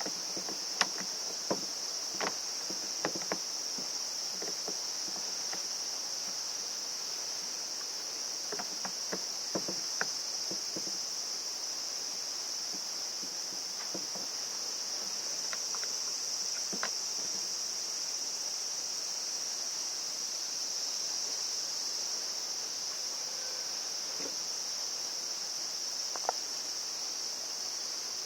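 Steady high-pitched insect chorus, with scattered light clicks and taps here and there, loudest about a second in, around nine to ten seconds in, and once near the end.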